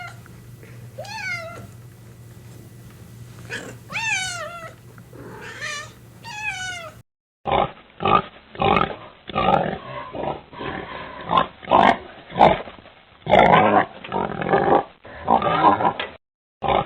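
A domestic cat meowing three times, each meow rising and then falling in pitch. About seven seconds in, the sound cuts to a different animal giving a run of short, rough calls about once a second.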